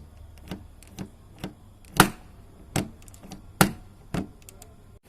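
A series of sharp clicks and taps at an uneven pace, about two a second, with two louder knocks about two seconds and three and a half seconds in.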